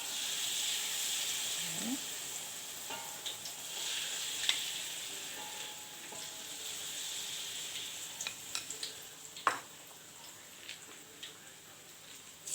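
Battered pineapple pieces deep-frying in hot oil in a wok, a steady sizzle that dies down after about eight seconds. A few sharp clicks and knocks sound against the pan.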